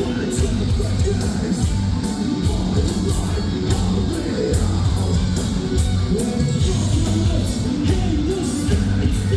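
Live metalcore band playing at full volume: distorted guitars, bass and drums with regular cymbal hits under a sung and shouted vocal.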